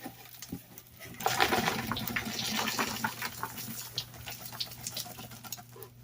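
Rustling and scattered small clicks and knocks of hands rummaging through a cardboard shipping box and its packing, checking that nothing is left inside.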